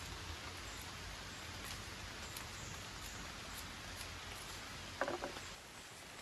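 Rain falling steadily, with scattered drips ticking. A brief clatter of a few knocks comes about five seconds in.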